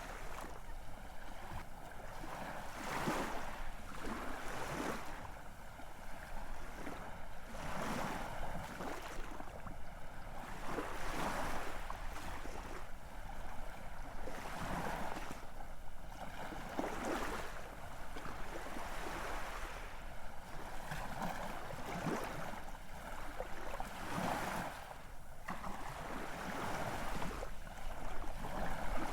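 Ocean surf: waves breaking and washing in, a continuous hiss that swells into a fresh surge every two or three seconds.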